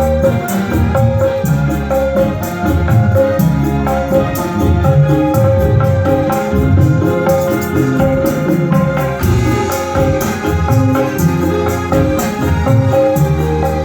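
Modern rebana ensemble playing an instrumental passage: frame drums and jingles keep a steady rhythm under held keyboard notes and a bass line.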